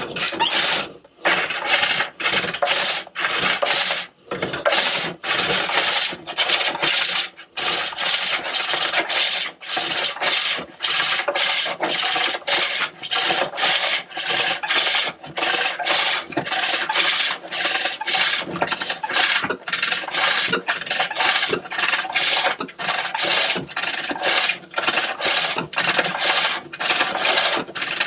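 Hook tool cutting a large green walnut bowl on a treadle-driven pole lathe: a rasping shaving cut on each down-stroke of the treadle, repeating in a steady rhythm of short strokes with brief gaps as the work spins back on the return.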